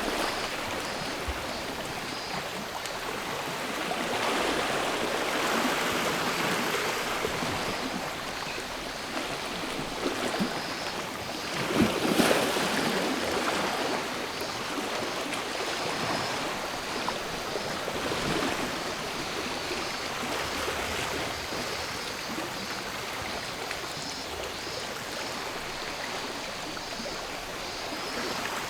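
Gentle sea waves washing in and out on the shore in slow surges, one larger wash about twelve seconds in. A faint cicada chorus pulses steadily above the water.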